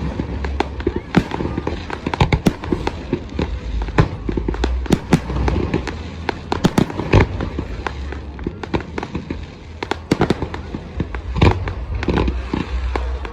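Fireworks going off: a rapid, irregular run of sharp bangs and crackles, several a second, over a low rumble.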